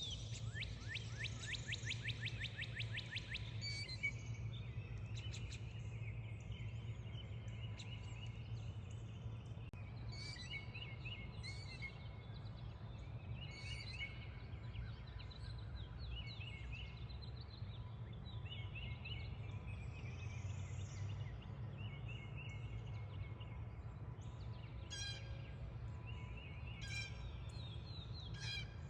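Birds singing. A fast run of rising notes fills the first few seconds, then short chirping phrases repeat every second or two over a steady low hum.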